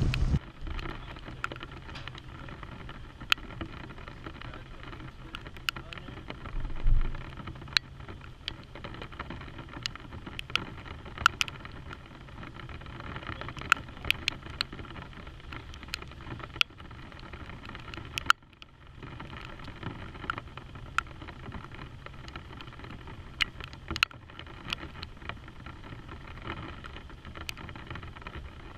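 Steady rain, with irregular sharp ticks of drops striking close to the microphone. A brief low rumble about seven seconds in.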